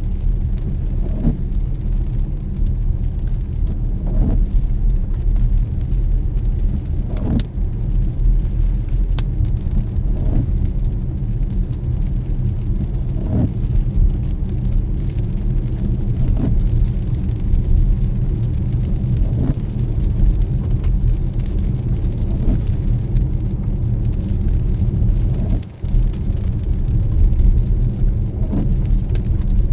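Car driving on a wet road: a steady low rumble of road and engine, with a brief tick about every three seconds.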